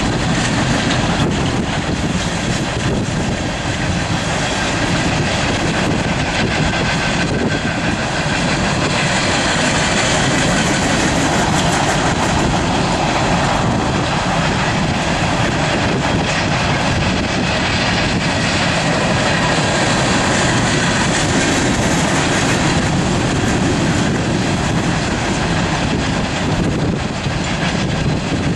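Empty coal train rolling past at a grade crossing: the steel wheels of the empty hopper cars run in a loud, steady clatter with a rhythmic clickety-clack over the rail joints.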